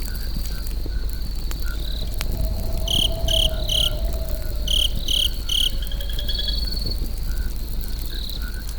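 Campfire crackling with scattered small pops over a low rustling bed, while insects trill steadily. Two bursts of three loud, short chirps stand out in the middle.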